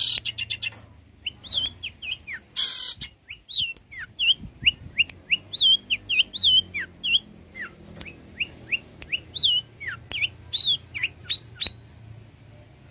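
Long-tailed shrike (cendet) singing a rapid run of short, sharp chirps and slurred whistles, several a second. A harsh, noisy burst comes about three seconds in. The song stops shortly before the end.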